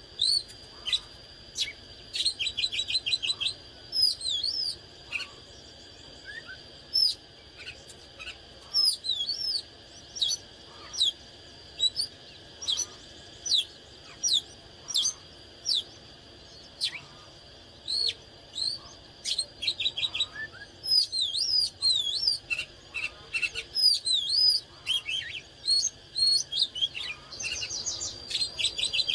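Oriental magpie-robin singing: a long run of varied short whistles, upward and downward swoops and quick rattling trills, with brief pauses between phrases. A steady high-pitched tone runs underneath.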